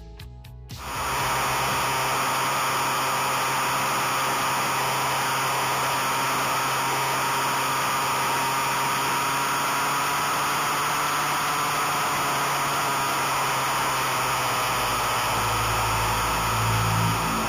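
Steady wind rush and engine noise of a 2005 Suzuki Bandit 1200 motorcycle under way, heard from on board; it comes in suddenly about a second in.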